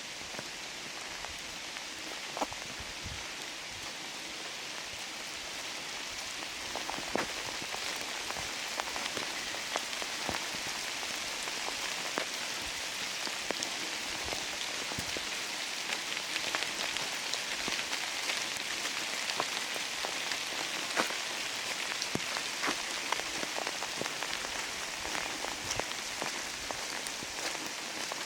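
Steady rain falling through a redwood forest, with many separate drops striking close by. It gets a little heavier about six seconds in.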